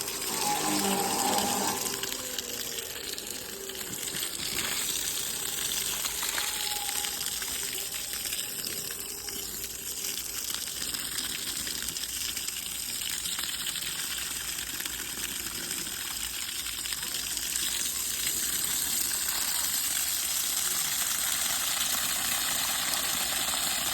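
Water gushing steadily from a hose onto concrete to keep it wet while it cures.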